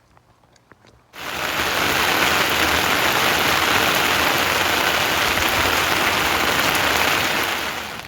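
Heavy rain pouring down as a dense, steady hiss, starting abruptly about a second in and easing off near the end.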